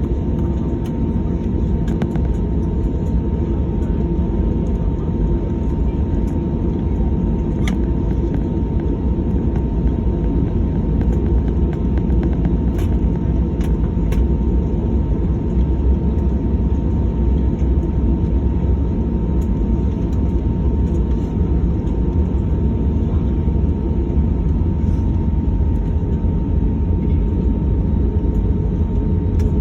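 Airliner engine noise: a loud, steady low rumble with a constant thin whine above it and a few faint clicks.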